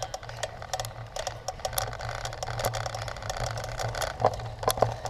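Bicycle rattling and clicking irregularly over rough ground, over a steady low hum, with two louder knocks near the end.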